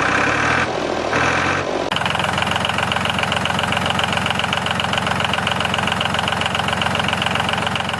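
DIY mini tractor's motor and drive running, uneven for the first two seconds, then settling into a steady, fast mechanical rattle.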